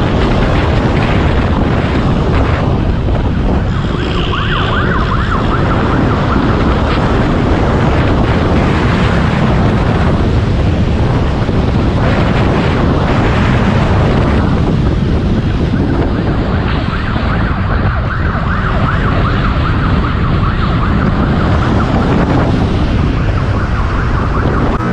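A police motorcycle riding at high speed: engine and wind noise, with a siren sounding over it at times.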